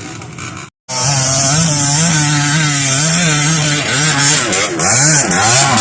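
Trail motorcycle engine revving up and down again and again, loud and uneven, with a strong hiss over it. The sound drops out completely for a moment just under a second in, then comes back loud.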